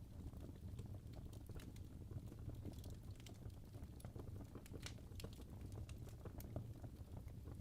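Wood fire crackling: irregular small pops and snaps over a low steady rumble.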